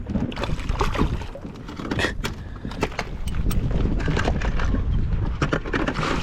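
Wind on the microphone and water against a small inflatable boat, with many short knocks and splashes scattered throughout.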